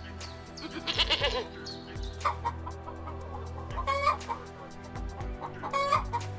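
Chickens clucking, in short calls around the middle and near the end, over steady background music.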